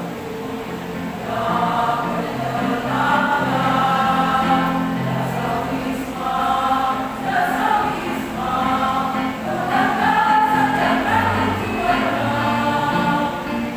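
A choir singing a song in held phrases, with the voices coming in about a second in.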